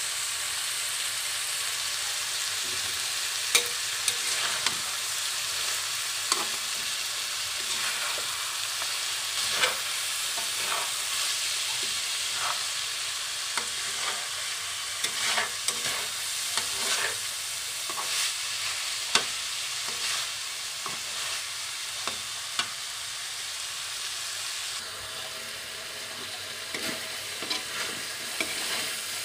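Diced potato and carrot sizzling as they fry in a wok-style pan, stirred with a spatula that scrapes and knocks against the pan at irregular moments.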